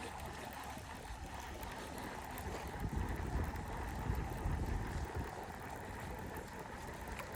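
Wind buffeting the microphone outdoors, a low gusty rumble that swells from about three to five seconds in over a steady noisy hiss.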